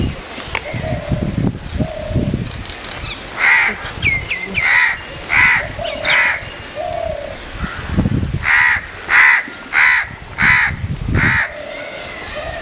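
A crow cawing repeatedly, harsh calls about a second apart in two runs, four calls then five, with fainter calls of other birds between.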